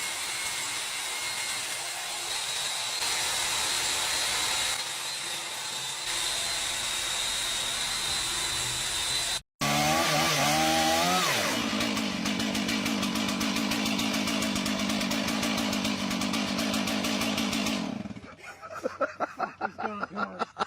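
A small engine revs up and then runs steadily at high speed with a fast, buzzing pulse, after a steady rushing hiss that is cut off abruptly.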